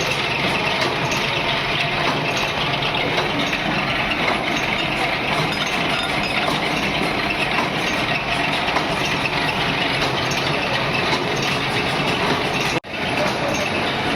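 Workshop machinery running with a steady dense din and light metallic clinking; the sound drops out for an instant near the end.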